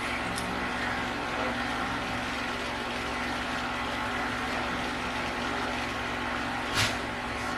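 Steady mechanical hum with an even droning tone. A single sharp click or tap comes near the end.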